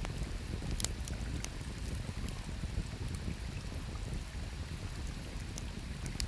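Wood campfire crackling, with scattered sharp pops (the strongest about a second in and near the end), over a steady low rush of river water.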